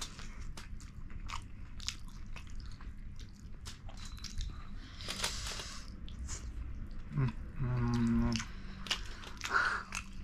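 Close-miked chewing of fish curry and rice, with many small mouth clicks throughout and a brief hummed voice sound about seven seconds in.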